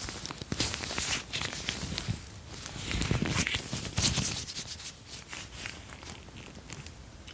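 Close-miked ASMR tapping and handling of an object, a run of quick irregular taps mixed with scratchy rubbing and rattling, busiest in the first half and thinning out after about five seconds.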